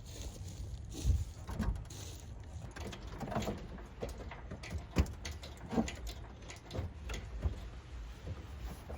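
Irregular metal knocks, clunks and scraping as an engine is worked out of a car's engine bay, with a sharp bang about five seconds in.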